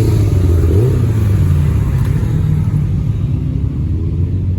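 A motor vehicle's engine running loudly close by. It rises in pitch about a second in as it accelerates, then slowly fades.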